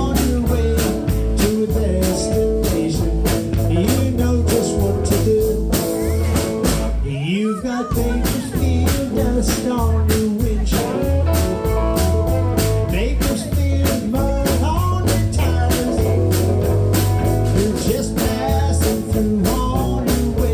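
Live band music: an instrumental stretch of a country-rock song, with guitar over a steady drum beat and bass. The beat drops out briefly about a third of the way in.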